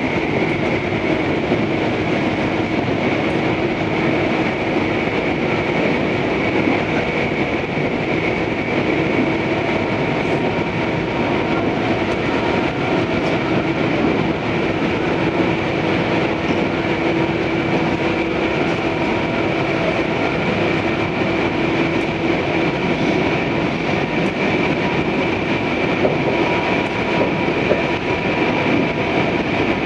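Tobu 634 series electric train running steadily at speed, heard inside the car: a continuous rumble with a steady high tone over it.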